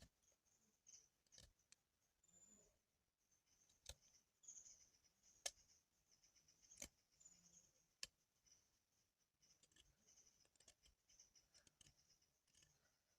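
Near silence: a faint steady high hiss with a few sharp, isolated clicks spread through it.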